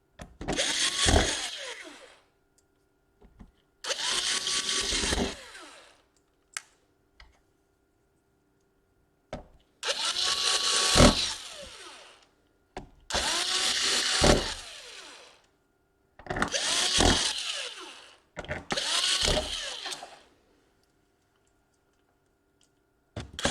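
Small electric screwdriver driving the laptop's bottom-case screws back in, one screw at a time. There are six runs of about one and a half to two seconds each, with the motor spinning up and winding down each time, and a seventh starting at the end.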